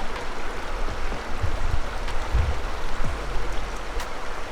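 Stream water running steadily, with a few low thumps of wind or handling on the microphone about one and a half, two and a half and three seconds in.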